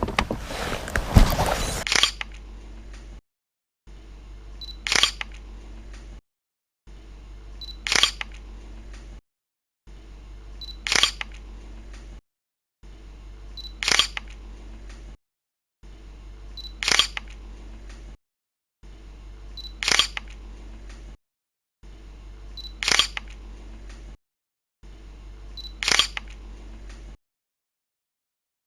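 About two seconds of loud noise, then a camera shutter click repeated eight times, about once every three seconds. Each click sits in a short stretch of low steady hum, with brief dead silence between them.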